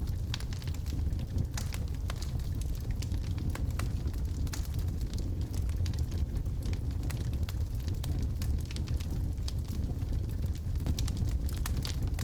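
Logs burning in a fireplace: a steady low rumble of the fire with frequent irregular crackles and snaps from the burning wood.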